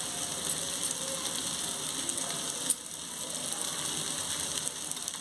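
Onion-tomato masala frying in a pan: a steady sizzle with a light crackle, and a single sharp click about two and a half seconds in.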